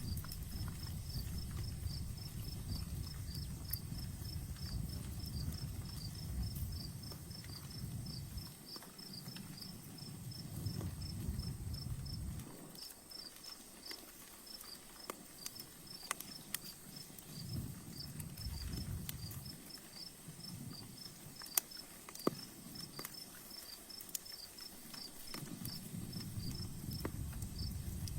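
Campfire crackling, with scattered sharp pops, the two loudest a little past the middle, over steady, rapid cricket chirping. A low rumble comes and goes several times.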